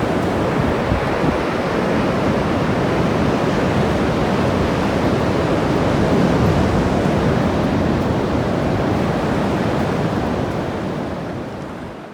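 Ocean waves breaking and washing up the shore in a steady rush, fading out near the end.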